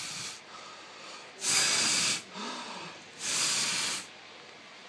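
Air being blown at a cat in three separate hissing gusts, each lasting about a second.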